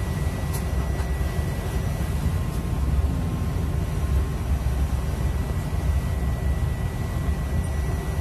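Steady low rumble with a faint, steady high-pitched whine: the running noise of an electric train.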